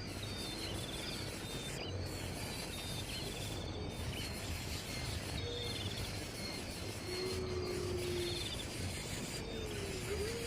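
Outdoor nature ambience: a steady noise bed with short bird chirps repeating about every two seconds, and a few longer, lower whistled glides in the second half.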